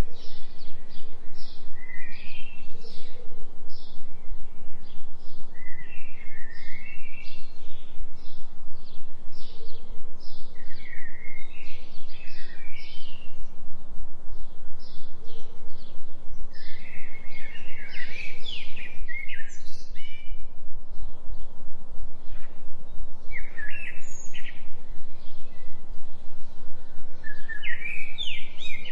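A low, steady binaural-beat drone for a 3 Hz delta frequency, its loudness pulsing rapidly and evenly, under a recording of forest birds chirping and trilling in short repeated phrases.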